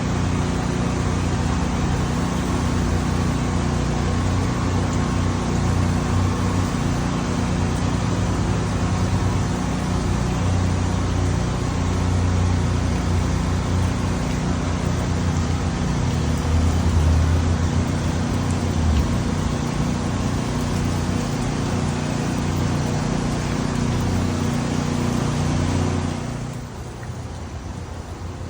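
Heavy rain coming down in a steady hiss over a steady low engine hum. Both drop off sharply about 26 seconds in.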